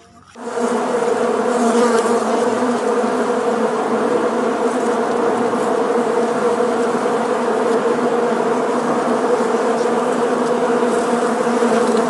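Many honeybees buzzing around an open hive, a steady, even hum that comes in about half a second in.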